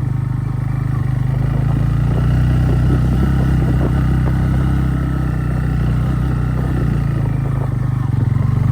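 Motorcycle engine running steadily at low speed, with clattering and rattling as the bike jolts over a rough, stone-laid track.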